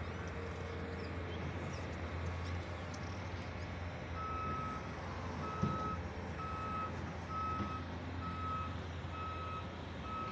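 Vehicle backup alarm beeping at one steady pitch about once a second, starting a little before halfway in, over a steady low hum.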